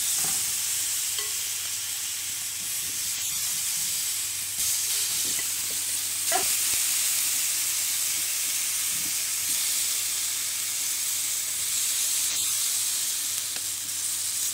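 Oil-marinated vegetables sizzling steadily in a hot ridged grill pan, with a few brief scrapes and taps of a utensil against the pan as the pieces are stirred and spread out.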